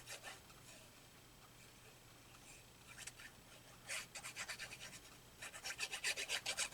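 Quick rubbing strokes on paper, several a second, in short runs: a brief run at the start, another about four seconds in, and a longer, louder run near the end.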